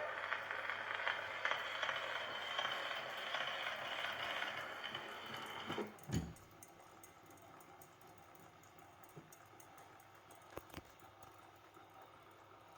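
Steady surface hiss of an Edison 4-minute Amberol cylinder turning under the phonograph's reproducer after the recorded song has ended, lasting about six seconds. Then a single knock as the playback stops, followed by near silence with a few faint clicks.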